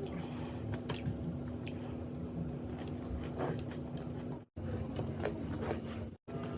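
A person chewing and biting food close to the microphone, with wet, squishy mouth sounds and small crunches, over a steady low hum. The sound cuts out twice, briefly, in the second half.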